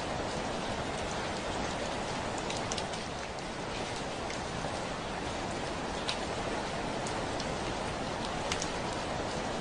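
Steady heavy rain falling on a window, an even hiss with scattered sharper ticks of single drops striking the glass.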